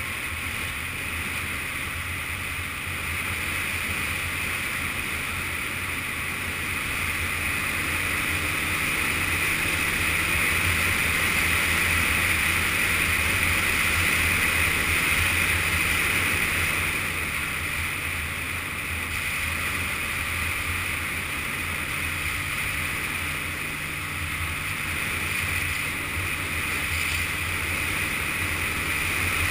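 Yamaha Fazer FZS 600 inline-four engine running under way, with steady wind rush over the helmet-mounted or bike-mounted camera. The engine and wind get louder over several seconds, ease off about halfway through, and pick up again near the end, as the throttle and speed change.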